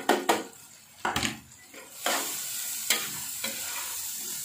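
Metal spatula knocking and scraping in a non-stick wok as sliced green chilies are tipped in and stirred through hot spice paste. From about two seconds in, a steady frying sizzle.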